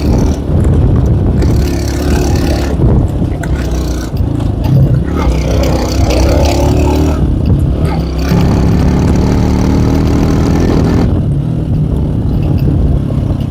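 Small K Moto ATX motorcycle engine pulling uphill, its pitch rising and falling with the throttle, with wind rush on the microphone that drops away near the end.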